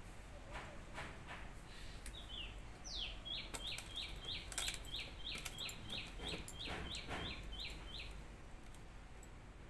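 A bird calls a quick run of short, downward-sliding chirps, about three a second, starting about two seconds in and stopping near the end. Soft clicks and squelches of a hand eating rice from a steel bowl come alongside, with one sharp click about halfway through.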